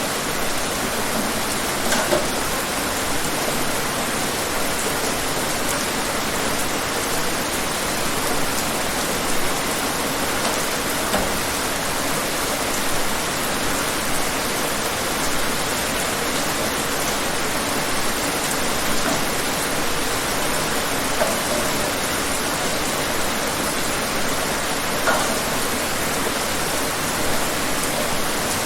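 Steady rainfall, an even hiss of drops with an occasional louder single drop hitting a surface.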